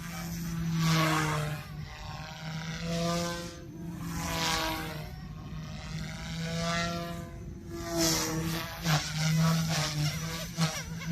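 Goosky S2 brushless RC helicopter flying 3D aerobatics: a steady rotor hum under whining tones that glide up and down in pitch, with three loud whooshes of the blades as it loads up in the manoeuvres.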